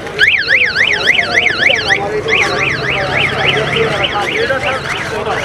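An electronic siren-type alarm warbling rapidly up and down, about five sweeps a second, with a short break about two seconds in. Faint voices murmur underneath.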